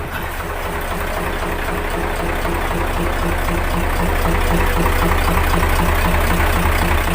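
Mitsubishi Fuso 8DC10 V8 diesel idling steadily just after a top overhaul, on its first break-in run, growing a little louder over the first few seconds. It runs smoothly with a slight ticking, which the mechanic puts down to valves that still need adjusting.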